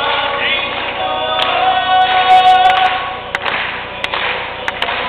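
All-male a cappella group singing live, several voices in close harmony with no instruments.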